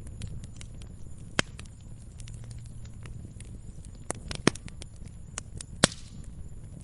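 Wood fire crackling in a fireplace: irregular sharp pops and snaps over a low steady rumble of the flames, with a few louder pops about one and a half, four and a half and six seconds in.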